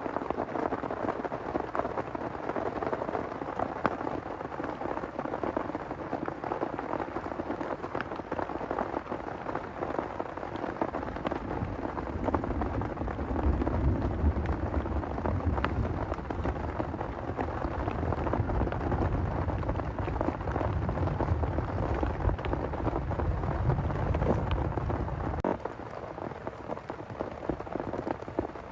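Heavy rain pattering steadily, with sharp individual drops striking close by. About twelve seconds in, a long low rumble of thunder swells up under the rain, lasts some thirteen seconds, and then cuts off suddenly.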